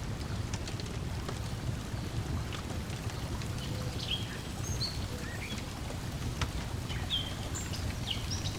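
Lakeside ambience: a steady low wash of water lapping against the shore, with sharp crackles from a wood fire and short chirping bird calls, the birds busier from about halfway through.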